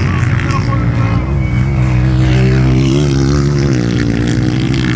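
An engine running steadily, its pitch wavering up and down slightly.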